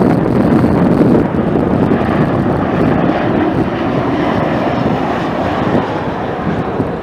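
Jet airliner's engines passing close by: a loud, steady rushing roar that eases slightly near the end.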